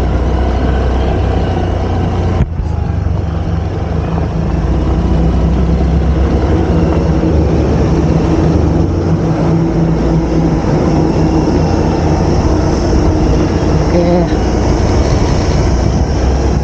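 Motorbike engine running at a steady cruise with wind rushing over the microphone while riding along a road.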